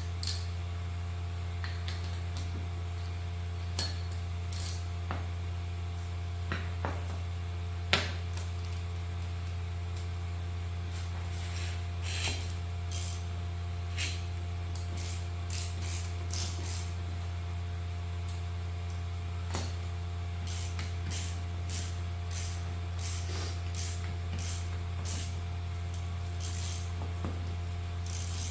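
Scattered clicks and light metallic clinks of hand tools working a steel suspension arm and its rubber bushing, over a steady low hum.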